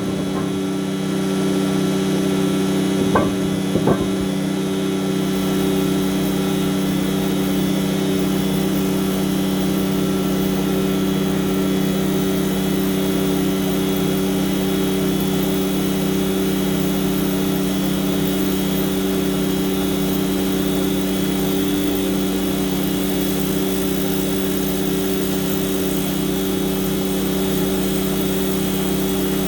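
A heavy engine running steadily at a constant pitch, with two brief clicks about three and four seconds in.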